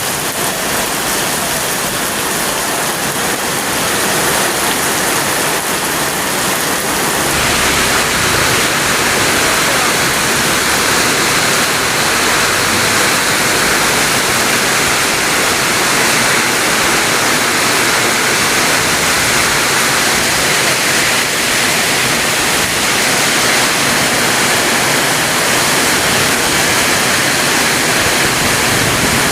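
Very heavy rain pouring down in a steady, loud hiss, growing a little denser about seven seconds in.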